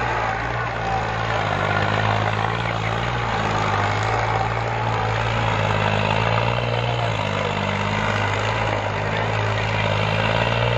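New Holland tractor's diesel engine running steadily and loudly, its pitch shifting slightly about seven seconds in.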